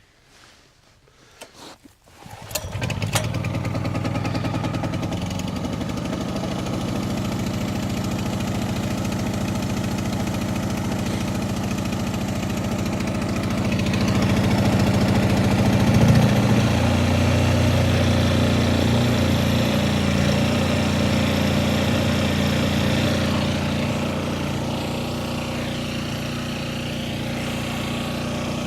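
Honda-clone engine of a 3500-watt portable generator catching on a cold start with a little ether, about two and a half seconds in after a few faint clicks, then running steadily. Its tone shifts and it gets slightly louder about halfway through.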